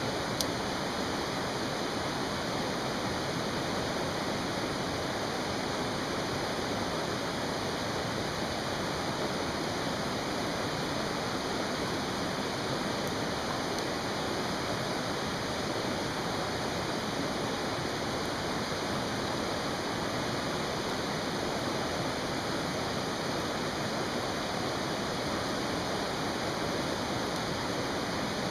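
Mountain stream rushing steadily, with a single small crackle from the campfire about half a second in.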